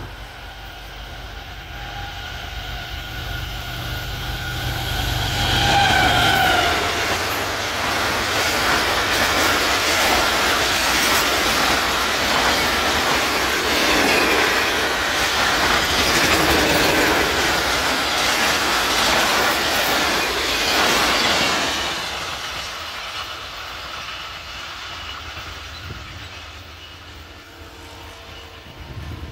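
GE U40 diesel locomotive hauling an express train past at speed. A low rumble and a steady tone build as it approaches, the tone dropping in pitch as the locomotive goes by about six seconds in. A long loud rush of coaches with wheels clattering on the rails follows, then it fades away near the end.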